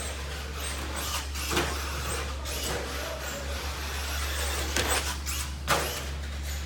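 Electric 1/10 RC stadium truck running on a track: brushless motor and tyres, with a few short louder bursts about one and a half, five and five and a half seconds in.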